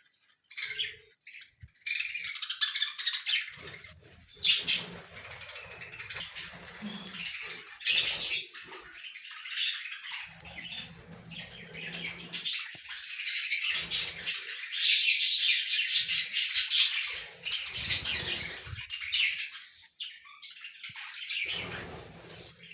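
A colony of budgerigars chattering and chirping together in a dense, busy twitter that grows fullest about two thirds of the way through.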